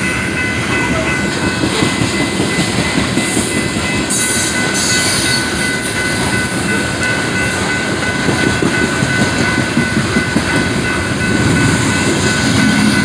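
A train rolling past close by, a steady heavy rumble of wheels on the rails with a continuous clickety-clack, and a thin steady high tone running through it.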